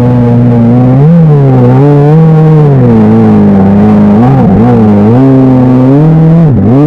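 Kawasaki SXR 1500 stand-up jet ski's four-cylinder engine running hard, its pitch rising and falling again and again as the throttle is worked.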